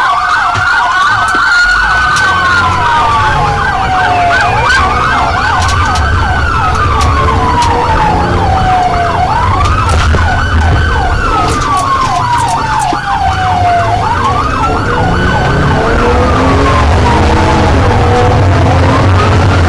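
Police car siren wailing, rising and falling about every four seconds, with a second siren's rapid yelping sweeps layered over it. A vehicle engine rumbles low underneath.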